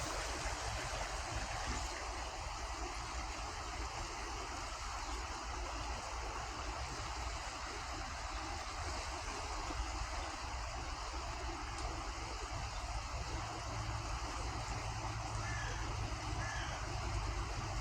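Steady rush of flowing river water over a constant low rumble, with two faint short high chirps near the end.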